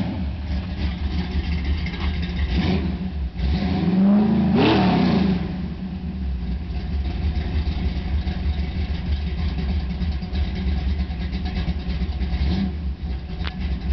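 V8 engine in a 1985 Chevrolet S-10 drag truck idling, with one quick blip of the throttle about four seconds in that rises and falls back to idle.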